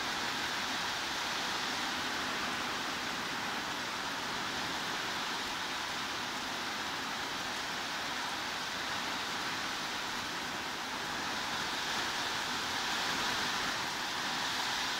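Heavy rain falling steadily, an even hiss with no single drops standing out, swelling slightly a little before the end.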